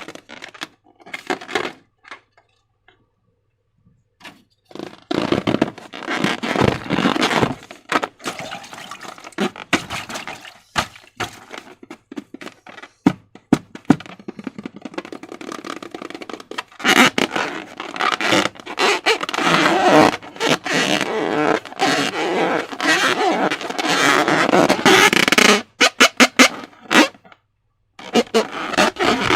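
Slime being worked by hand, with sticky crackling, clicking and squelching. It stops for a few seconds early on and is densest in a long stretch past the middle.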